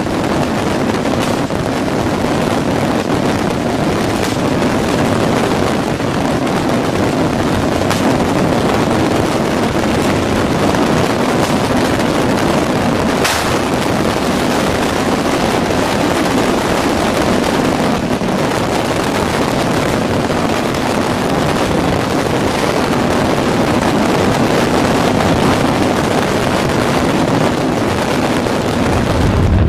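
A stockpile of fireworks going off all at once: a dense, continuous barrage of crackling and bangs. A few sharper bangs stand out, the strongest about thirteen seconds in.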